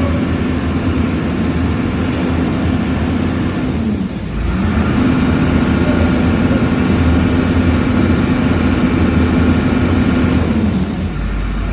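Engine of a Komatsu vehicle running with a steady hum; its pitch drops and comes back up about four seconds in, holds steady, then drops again near the end.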